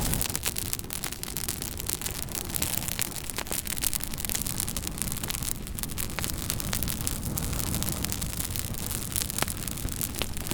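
Campfire burning, crackling with many sharp irregular snaps and pops over a steady hiss and low rumble of the flames.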